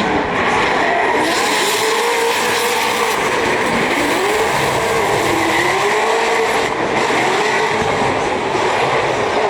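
Drift car engine running at high revs, its pitch rising and falling as the throttle is worked mid-drift, over a steady noisy wash of sliding tyres.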